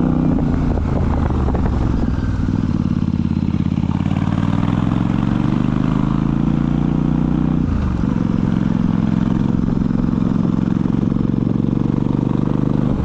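Royal Enfield Super Meteor 650's 648 cc parallel-twin engine running steadily, its note shifting slowly with a sudden change in pitch about eight seconds in.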